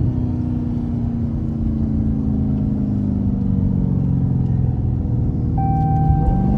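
Car engine heard from inside the cabin, its revs falling slowly as the car slows in traffic, then rising again briefly near the end.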